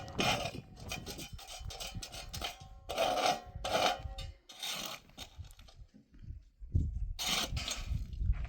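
Repeated rough scraping or rubbing strokes: three loud ones a few seconds apart, with lighter scratching between.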